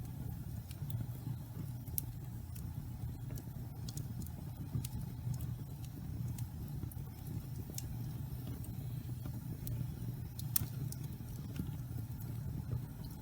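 Pine-log fire burning in a fireplace: a steady low rumble of flames under scattered sharp crackles and pops from the damp wood, with the loudest pop about ten seconds in.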